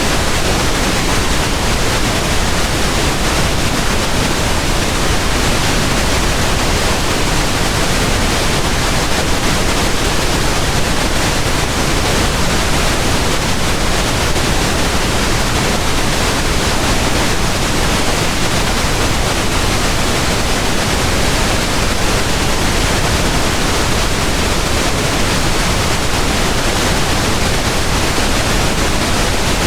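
Steady pink noise: an even, unchanging hiss spread across all pitches, a synthetic sleep-masking sound.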